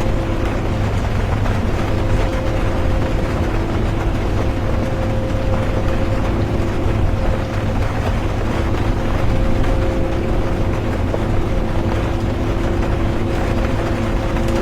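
Steady interior noise of a bus driving in the rain: low engine and road rumble with a constant hum, under an even hiss of rain.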